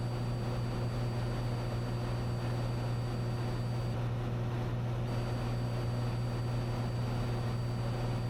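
Cessna 182's six-cylinder piston engine and propeller droning steadily in cruise, heard through the headset intercom, with a faint thin high whine that drops out briefly about four seconds in.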